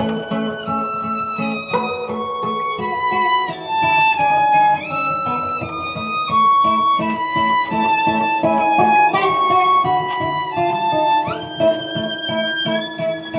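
Violin and acoustic guitar improvising together. The violin plays a sustained melody that steps and slides between notes, over a fast, evenly repeated low plucked note on the guitar.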